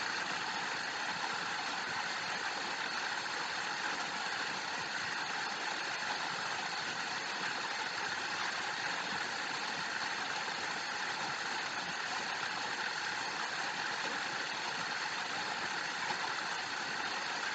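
A steady, even rushing noise that holds at one level throughout, with no distinct events in it.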